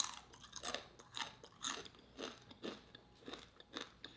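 Close-miked chewing of a crunchy homemade tortilla chip, about two crunching chews a second.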